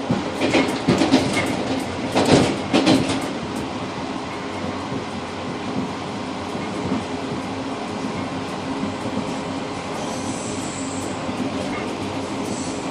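A passenger train running, heard from inside the rear car's cab vestibule: a steady rumble with a cluster of clacks and knocks in the first three seconds as the wheels run over the track, and faint brief high squeals from the wheels near the end.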